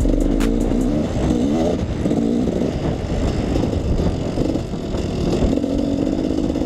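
KTM 300 EXC two-stroke dirt bike engine running under load, its pitch rising and falling as the throttle is worked, with a few sharp clicks.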